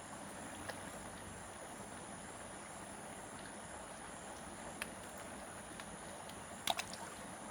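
Faint outdoor nature ambience: a steady hiss with a thin high steady tone, broken by a few small clicks, the loudest a quick double click near the end.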